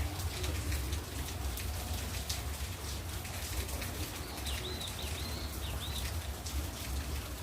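Steady rain falling, with many small drops pattering over a low rumble. A bird gives a short run of high chirps about two-thirds of the way through.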